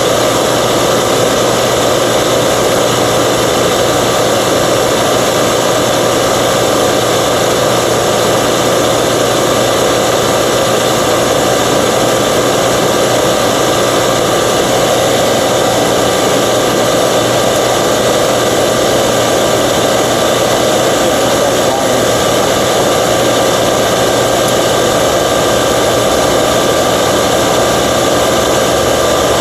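Refrigerant recovery machine running steadily under load, its compressor and fan making a loud, even hum with a constant pitch while it pulls refrigerant out of an air-conditioning system.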